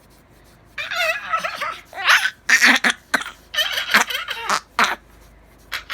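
Baby shrieking at the top of his lungs in a run of loud, screechy bursts, starting about a second in.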